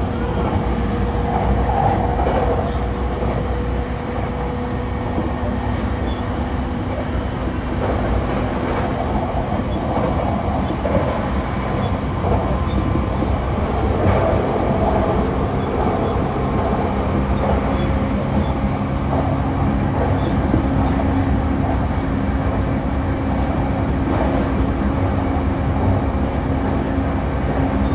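JR East E233-3000 series electric train running along the line: a steady rumble of wheels on rail with a low steady hum, at cruising speed with no marked speeding up or slowing down.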